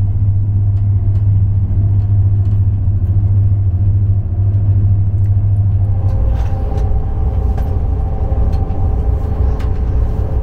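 Cabin noise of an ICE high-speed train under way: a loud, steady low rumble, with a few steady whining tones joining it about six seconds in.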